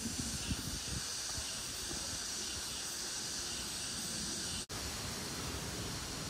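Steady high-pitched hiss of outdoor ambience along a wooded path, with a few soft low thumps in the first second. The sound cuts out for an instant about three-quarters of the way through.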